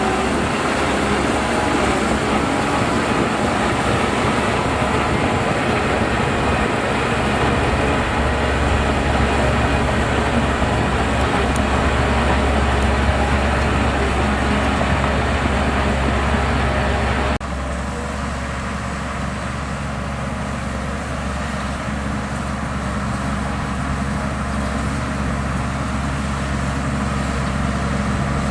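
Heavy diesel engine of earthmoving machinery running steadily with a deep drone. About two-thirds of the way through, the sound cuts abruptly to a quieter, duller engine note.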